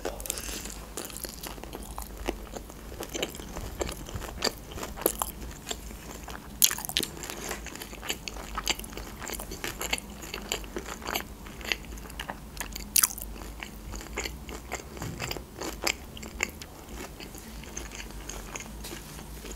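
Close-miked chewing of a deep-fried breaded sushi roll with a heavily fried, crisp crust: an irregular run of crunches and wet mouth sounds, with the sharpest crunches about six and a half and thirteen seconds in.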